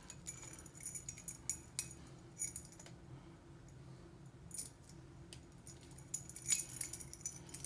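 Metal dog tags and their ball chains clinking and jingling as they are handled, in scattered bursts of small metallic clicks, the loudest cluster near the end.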